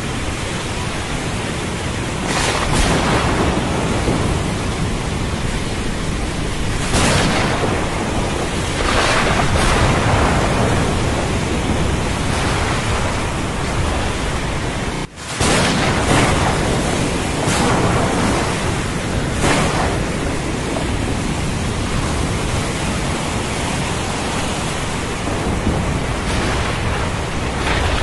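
Thunderstorm with steady heavy rain, swelling louder every few seconds, cutting out for an instant about halfway through.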